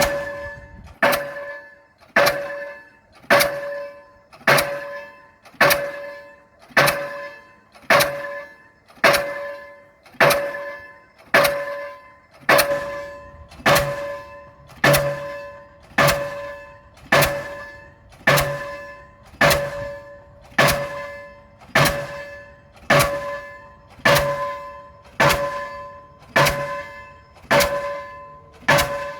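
Delmag D46-32 diesel pile hammer driving a 450 mm PHC concrete pile: heavy blows at a steady pace of just under one a second. Each blow rings metallically and fades before the next.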